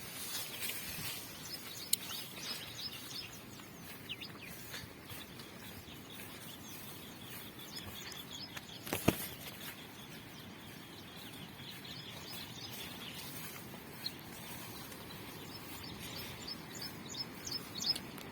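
Birds chirping over a steady outdoor hiss, with the short chirps clustering near the end. A single sharp knock about halfway through is the loudest sound.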